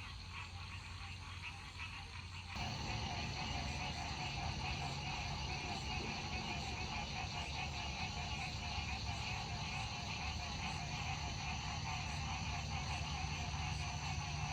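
Night chorus of frogs with insects, a steady, dense calling that steps up abruptly about two and a half seconds in and then holds level.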